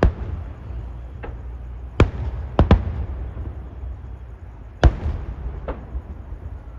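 Fireworks display: aerial shells bursting in sharp booms, a loud one at the start, another about two seconds in, a quick pair just after, and one more near five seconds, with fainter bangs between, over a steady low rumble.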